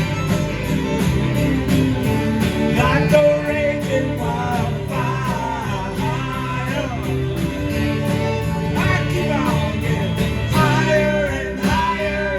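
Live band playing a song with singing over guitar, bass and a steady drum beat.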